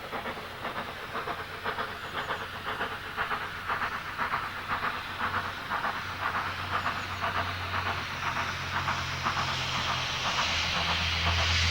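Steam locomotive working a train with regular exhaust beats, about three a second, and steam hissing. It grows steadily louder as it approaches, with a low steady hum coming in about halfway through.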